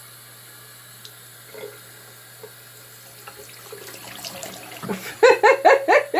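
Water running from a kitchen tap, then near the end a quick series of loud, short rising chirps from the pet bird, about four a second.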